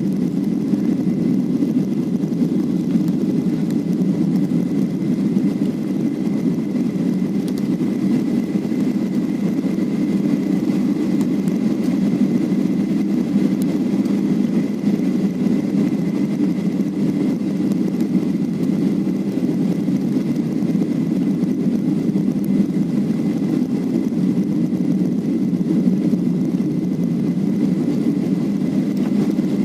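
Steady low drone of engine and airflow noise inside an airliner cabin, with a faint steady high whine.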